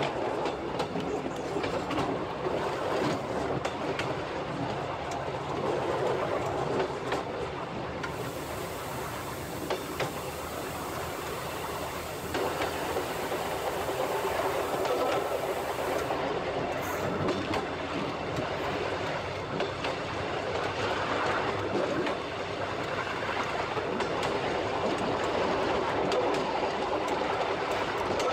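Narrow-gauge cogwheel rack railway train running steadily, heard from the driver's cab: a continuous rumble of running gear with rapid clicking from the wheels on the track.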